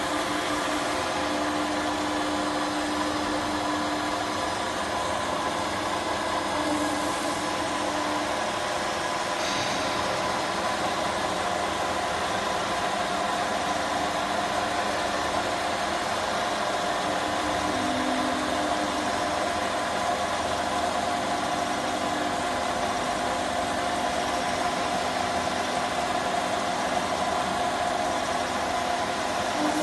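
CNC gantry router running: a steady machine hum with several fixed tones, and a lower tone that comes and goes every few seconds as the machine works.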